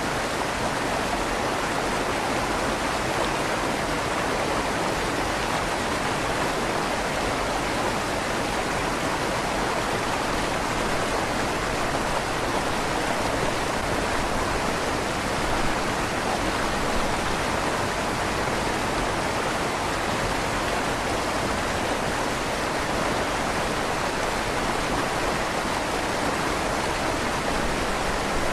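River water flowing steadily under a stone bridge, an even rushing with a slight echo from inside the stone tunnel.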